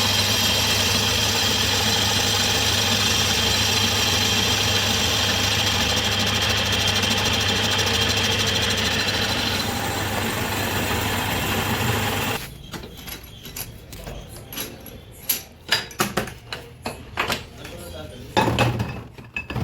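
Boring machine running steadily with a low hum and a high whine while boring the bushes of a JCB engine block. The whine drops out about ten seconds in, and the machine stops about two seconds later. Then come a series of sharp metallic clicks and knocks.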